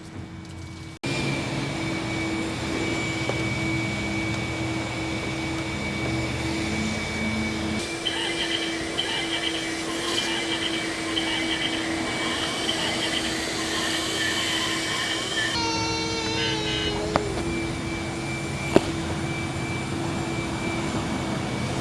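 Steady drone of car wash machinery, a constant hum with hiss over it, cutting in suddenly about a second in.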